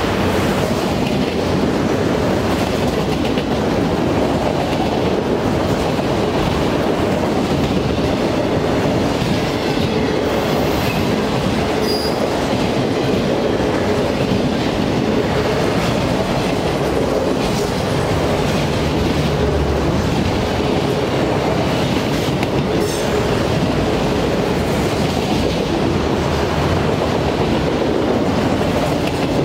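Loaded autorack freight cars rolling past close by: a steady rumble and clatter of steel wheels on the rails. A brief, faint high squeal comes through about halfway through and again about three-quarters of the way through.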